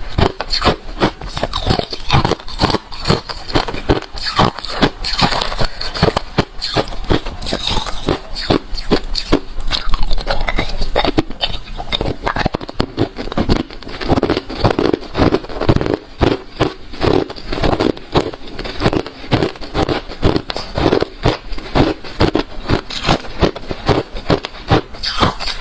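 Refrozen crushed ice being chewed close to the microphone: a continuous run of loud, rapid crunches, several a second.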